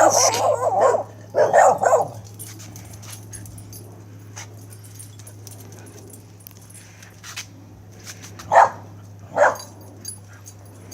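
Dogs barking: a run of barks in the first two seconds, then two single barks about eight and a half and nine and a half seconds in.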